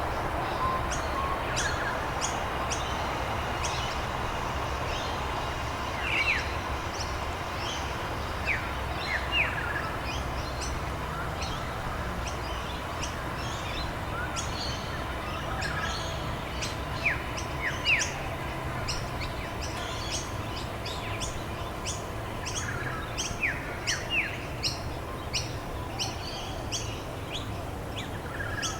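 Several birds chirping and calling: many short, high chirps and now and then a quick down-slurred whistle, over a steady background rush of noise.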